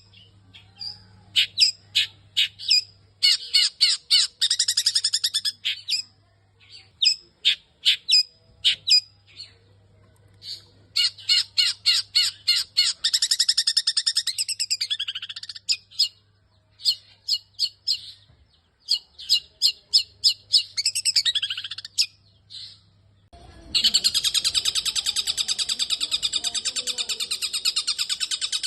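Long-tailed shrike (cendet) singing, mimicking calls of other birds: sharp separate chirps and short fast chattering trills in bursts, then a loud, continuous, rapid rattling trill for the last five seconds or so.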